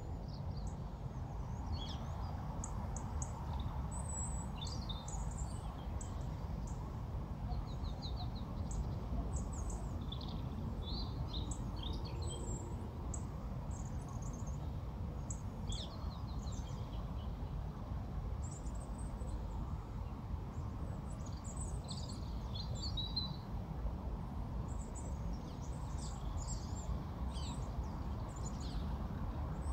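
Several small birds chirping and calling on and off throughout, short high notes over a steady low rumble of background noise.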